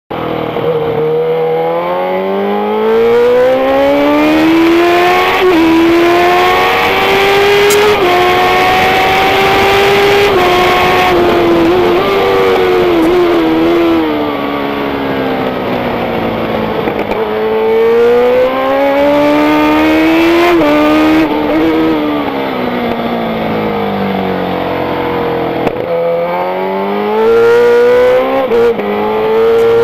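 Racing motorcycle engine at high revs, its pitch climbing through the gears with a brief dip at each upshift, then falling as it slows, several times over.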